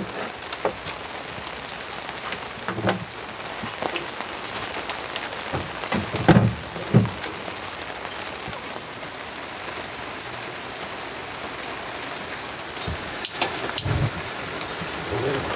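Steady rain falling close by, with a few louder thuds of drops or knocks near the microphone, the loudest about six seconds in and again near the end.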